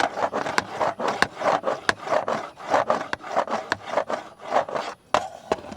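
Scratching on the plastic ring of a big camera, about two rasping strokes a second mixed with sharp clicks, thinning to a few scattered clicks near the end.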